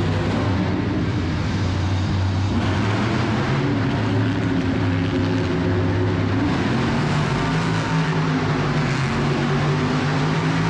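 Monster truck engine running loud and steady, its pitch rising a little about seven seconds in as the engine speeds up.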